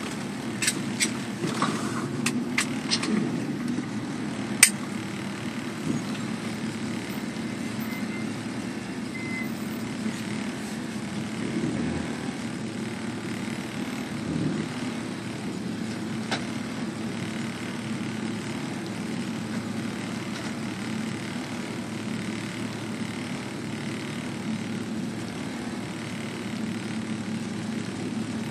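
1968 Chevrolet Chevelle's engine idling steadily, heard from inside the cabin. A few sharp clicks and knocks come in the first five seconds, the loudest about five seconds in, and one more near the middle.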